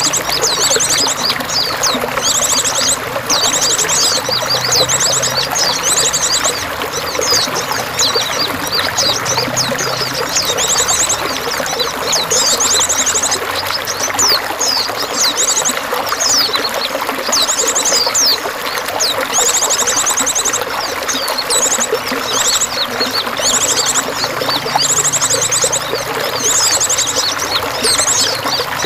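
Steady running, splashing water with small songbirds chirping and giving short, very high, rapid trills every second or two over it.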